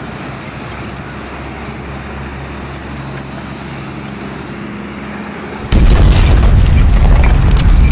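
Steady truck engine and traffic noise, then, near the end, a sudden very loud rumbling boom that cuts in abruptly and keeps going.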